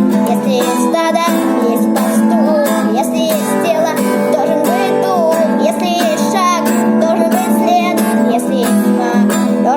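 Acoustic guitar strumming chords under a wordless sung melody that slides and wavers in pitch, an instrumental break between verses of the song.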